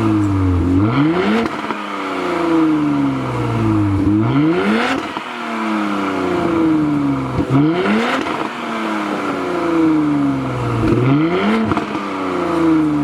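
Porsche Cayenne E3 Coupe 3.0T's turbocharged V6 revved through its aftermarket Tneer exhaust: four quick throttle blips about every three and a half seconds, each a sharp rise in pitch followed by a slow fall back toward idle.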